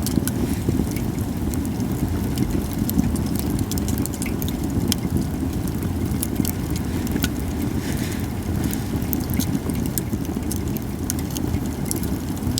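Japanese cedar wood fire crackling, with many sharp irregular pops over a steady low rumble.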